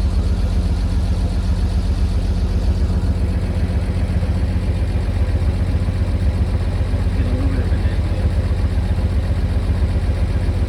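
The Stovebolt inline-six of a 1950 Chevrolet 4400 dump truck idling steadily and evenly, running really nicely after years of sitting.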